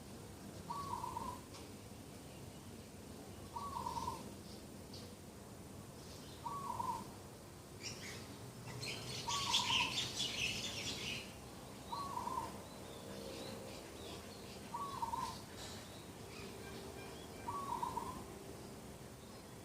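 Morning birdsong: one bird repeats a short hooting call about every three seconds, seven times, while smaller birds chirp and twitter, with a loud burst of chirping about eight to eleven seconds in.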